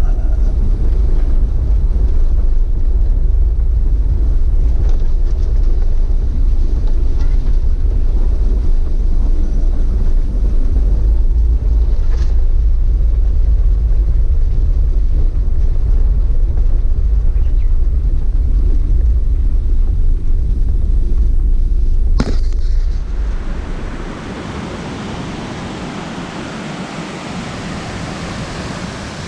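Waterfall noise: a loud, deep rumble of falling water close to the microphone. About 22 seconds in there is a short knock, and then it gives way to a quieter, even hiss of the falls.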